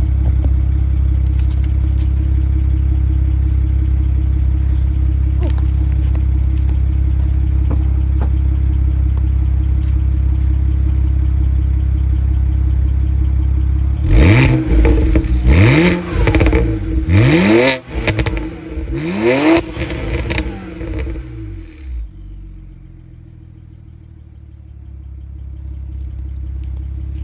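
2008 BMW 135i's twin-turbo inline-six, fitted with catless downpipes and a crackle tune, idling warm and steady, then revved in several quick blips about halfway through, the pitch rising and falling each time, with crackling as the revs drop.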